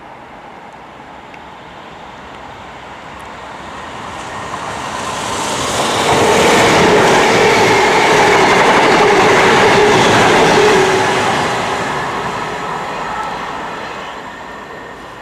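Diesel multiple-unit passenger train passing through the station. It grows louder over several seconds, stays loud for about five seconds with a steady hum and wheel noise on the rails, then fades away.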